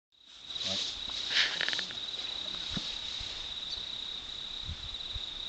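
Crickets trilling, one steady high-pitched tone. About a second and a half in there is a short, louder burst of rapid clicks.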